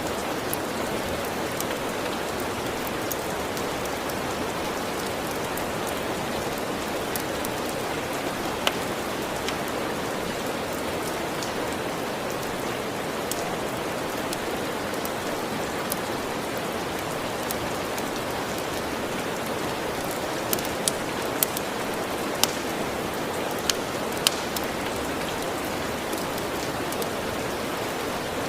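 Steady rain falling, with a few sharp clicks or pops standing out, several of them close together from about twenty to twenty-five seconds in.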